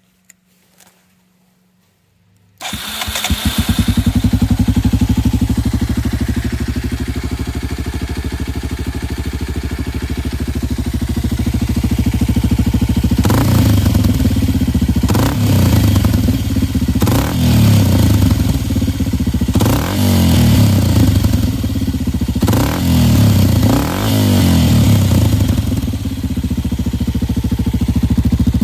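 Kawasaki Super Sherpa's single-cylinder four-stroke engine, breathing through a cheap aftermarket muffler, starts up about two and a half seconds in and idles. It is then blipped about half a dozen times before settling back to idle near the end.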